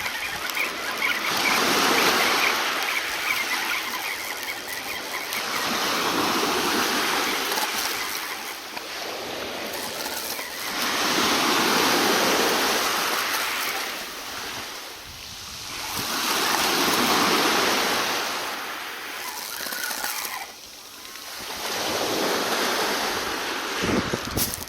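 Sea waves washing in and breaking, swelling and fading in five surges a few seconds apart.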